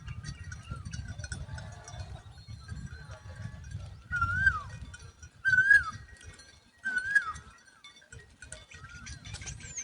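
Woodshrike at the nest giving a series of short, wavering calls, each rising then dropping. The three loudest come about a second and a half apart in the middle, with fainter ones before and after. A low rumble runs underneath.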